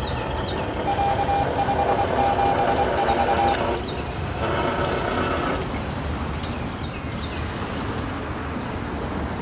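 Low, steady rumble of a CSX manifest freight train rolling away down the track. From about one second in, for some two and a half seconds, an on-off beeping tone sounds over it.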